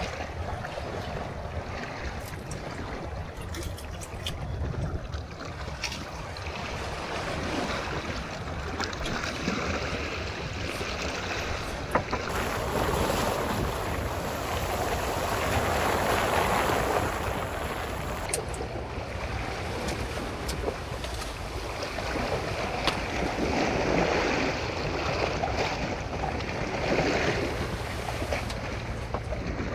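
Sea waves washing with wind buffeting the microphone, the wash swelling louder twice, with a few light knocks.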